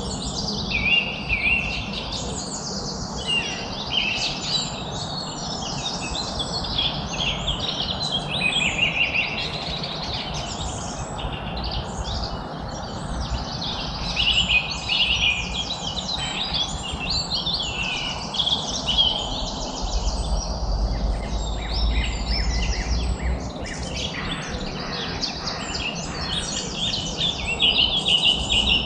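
Many songbirds chirping and singing at once, a dense, unbroken chorus of overlapping trills and quick chirps over a steady background hiss, with a brief low rumble about two-thirds of the way through.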